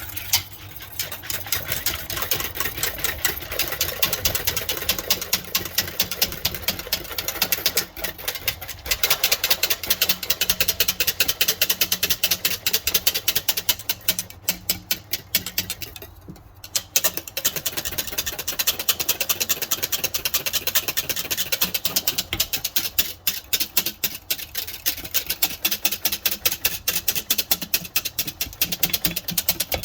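Metal whisk stirring milk and yogurt starter in the Instant Pot's stainless-steel inner pot: a fast, steady clatter of wire clicking against the pot, with a brief pause about 16 seconds in.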